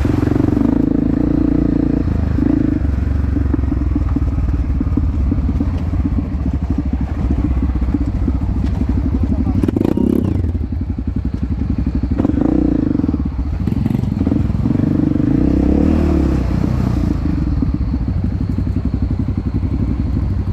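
Honda CRF250F trail bike's single-cylinder four-stroke engine running under way, its engine speed rising and falling several times with the throttle.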